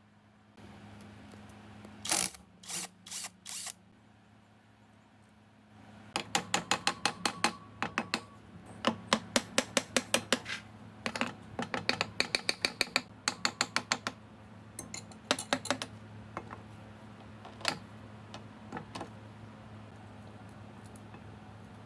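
Runs of sharp metallic clicks, about five a second, from hand tools working on motorcycle engine parts, with scattered single clicks before and after, over a steady low hum.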